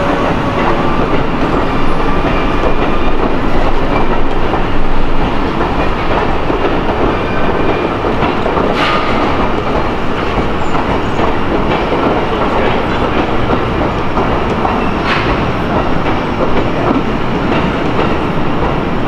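Amtrak passenger train rolling out along the platform below, its cars passing with a steady noise of steel wheels on rail. There are two brief sharp sounds, about a third and three-quarters of the way through.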